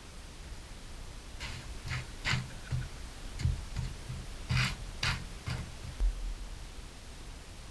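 About ten light, irregular taps and clicks over about four seconds, a few with a dull low knock beneath them.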